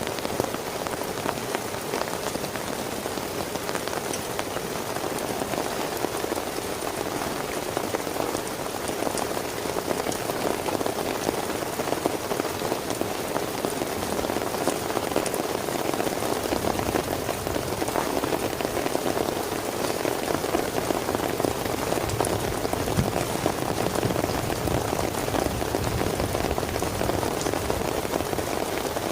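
Heavy rain falling steadily, a dense patter of many small drop hits on a surface, growing slightly heavier after the first several seconds.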